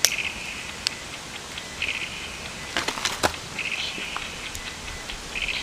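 Wood campfire crackling, with several sharp pops, a quick cluster of them about three seconds in, and short bursts of hiss between them.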